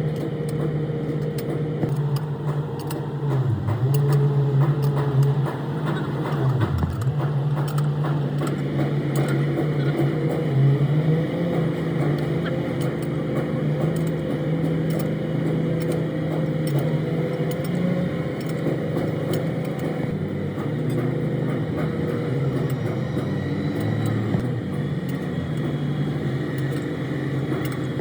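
A motor or engine running steadily with a low hum that dips in pitch briefly twice within the first several seconds, with scattered light clicks and taps over it.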